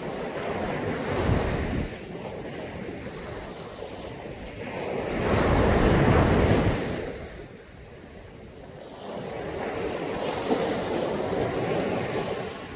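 Caribbean Sea waves breaking and washing up on a beach, coming in three surges, the loudest about halfway through.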